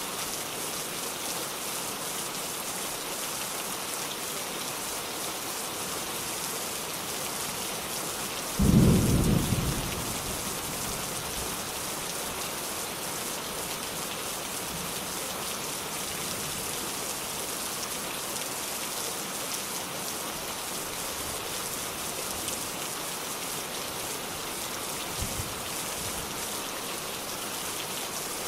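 Steady rain falling, with a single loud clap of thunder about nine seconds in that rumbles away over a second or so. A faint low knock comes near the end.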